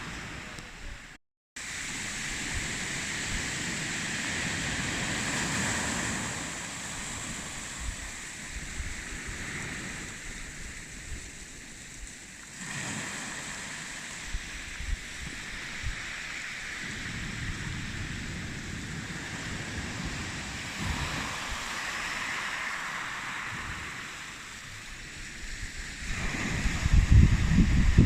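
Sea surf washing on a shingle-and-sand beach under steady wind, with wind buffeting the microphone in low rumbling gusts that grow much stronger near the end. The sound cuts out completely for a moment about a second in.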